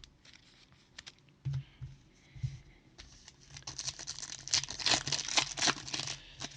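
A trading-card pack's foil wrapper being torn open and crinkled: a few light clicks and taps, then a dense crinkling crackle for about two and a half seconds in the second half.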